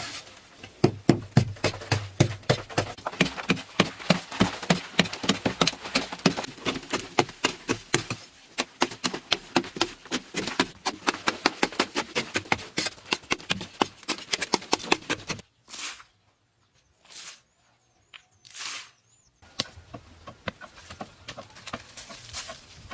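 Rapid, repeated sharp knocks, several a second, that stop about two-thirds of the way in; then three short bursts of noise with near silence between them.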